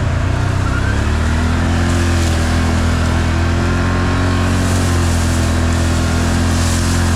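Off-road vehicle engine running steadily under way, its pitch rising slightly about a second in and easing down near the end.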